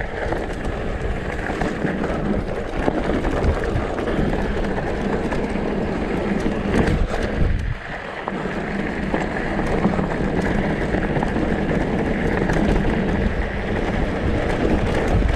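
Downhill mountain bike rattling and rumbling over a rough, rocky trail at speed: tyres on dirt and rock, chain and frame clattering, with wind rushing over the microphone. The noise briefly drops about halfway through, then picks up again.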